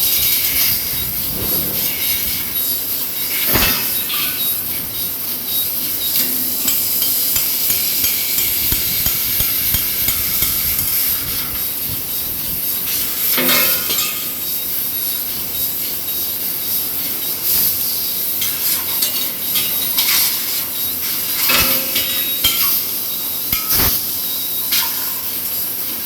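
Tube fiber laser cutting machine at work: a steady high hiss, broken by a few sharp metallic knocks and clanks spread through the stretch.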